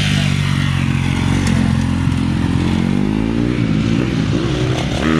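Mini bike's small engine running as it is ridden, its pitch dipping and rising with the throttle a few times from about three seconds in.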